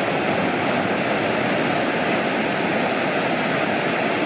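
Steady rushing noise of sea water and wind, an even roar with no breaks or changes.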